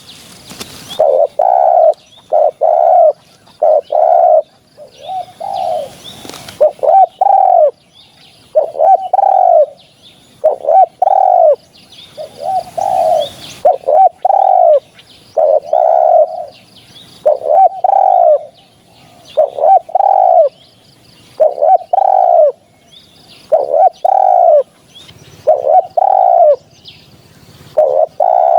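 Spotted dove cooing over and over: loud, low coo phrases about once a second, the call used as a hunting lure.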